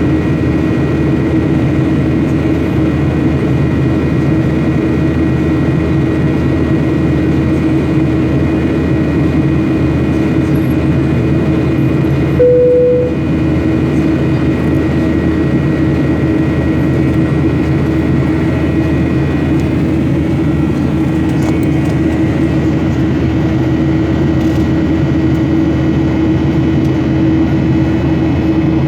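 Airliner cabin noise: the steady rush and hum of the jet engines and airflow heard from inside the passenger cabin. A short single tone sounds briefly about halfway through.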